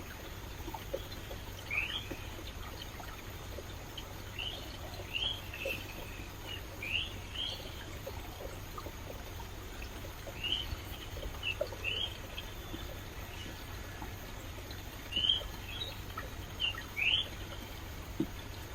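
Stream water running steadily, with a bird calling in short rising chirps that come in small groups every few seconds.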